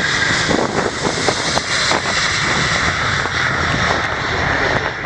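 Boeing 757-300 taking off, its twin jet engines at takeoff thrust giving a loud, steady, crackling rumble with a strong hiss.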